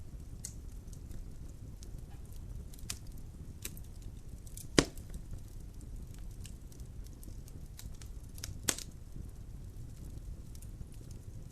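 Logs burning in a fireplace, crackling with scattered sharp pops over a steady low rumble; two pops stand out loudly, about five and nine seconds in.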